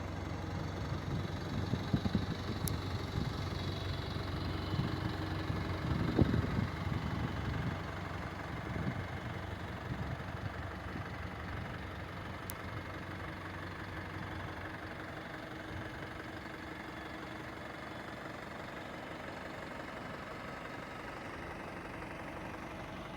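Euro 6 diesel engine of a 2022 Alexander Dennis Enviro200 single-deck bus idling, a low steady hum that is a little uneven for the first several seconds and then settles. It idles nicely, the engine being practically brand new.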